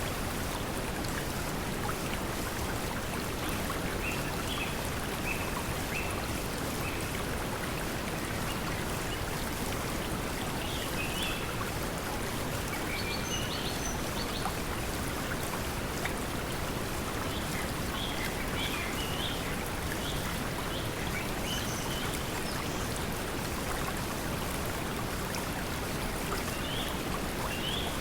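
Steady pink noise mixed with flowing water, with short bird chirps scattered throughout.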